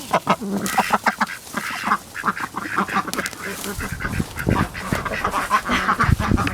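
A mixed flock of domestic ducks quacking rapidly, many short calls overlapping. Low thumps join in from about four seconds in.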